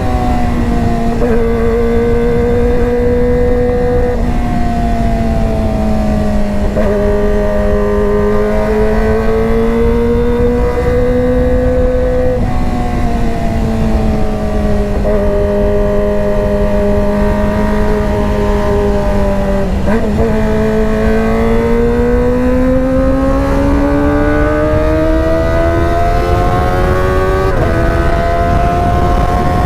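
Kawasaki ZX25R's 250 cc inline-four running through a GP Tech Zeus Short aftermarket exhaust. It holds a steady high-revving note that drifts slowly up and down in pitch and jumps abruptly a few times, over a constant low rumble.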